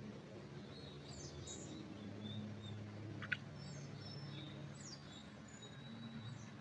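Small birds chirping: scattered short high calls and quick falling notes, with a thin held whistle near the end. Underneath runs a low steady hum, and one sharp click comes about three seconds in.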